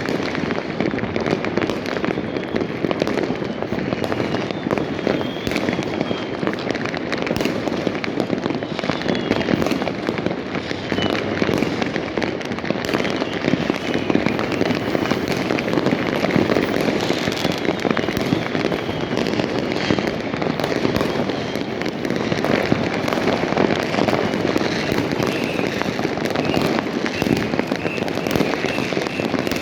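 Many fireworks and firecrackers going off at once in a dense, continuous crackle and popping, with faint high whistles here and there.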